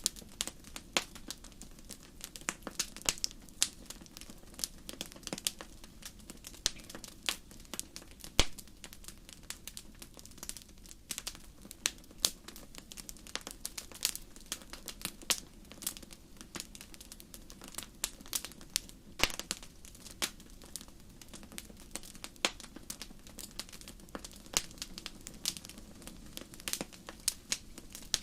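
Wood campfire crackling: frequent irregular sharp pops and snaps over a low, steady rush of flame.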